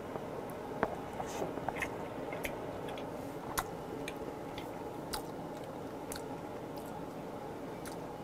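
A person chewing a bite of grilled freshwater eel, with scattered wet mouth clicks over a steady background hiss. The clicks are thickest in the first few seconds and thin out later.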